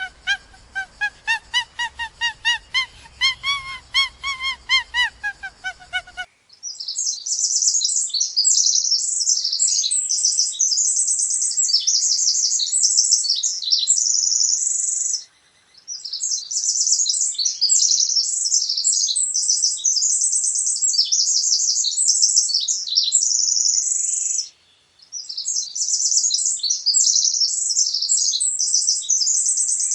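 A rapid run of pitched animal calls, about three or four a second, rising and then falling in pitch for about six seconds. Then dense, high-pitched bird chirping and song follows in three long stretches with two brief breaks.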